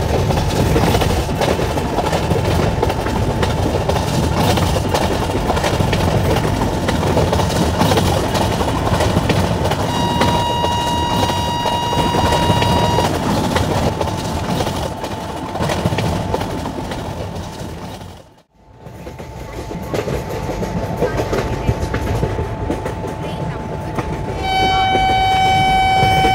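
Electric-locomotive-hauled train running by with a steady rumble and wheels clattering over rail joints. A horn sounds for about three seconds, ten seconds in. Near the end a second, lower horn chord starts and holds.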